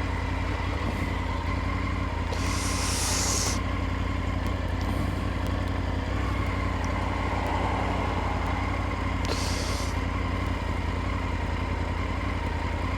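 Triumph Tiger 900 GT Pro's three-cylinder engine running steadily while riding, with two brief rushes of hiss, about two seconds in and again near ten seconds.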